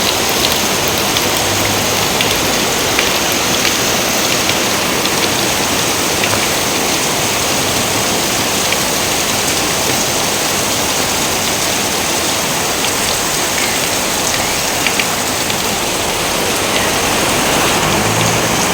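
Steady, heavy rain: a dense, even hiss of falling water with many individual drops ticking through it.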